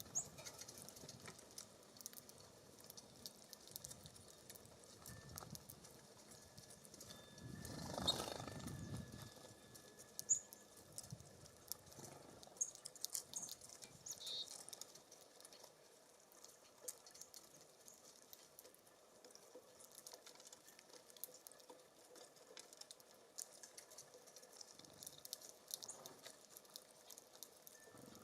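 Small songbirds feeding at a seed feeder: scattered faint ticks and taps of pecking and seed, with a brief gust of wind on the microphone about eight seconds in and a few short, high chirps just after.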